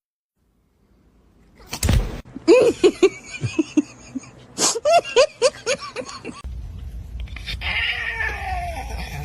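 A thump, then a cat giving a quick run of short calls that rise and fall, about two a second, for some four seconds. After that there is a steady low hum with a falling cry.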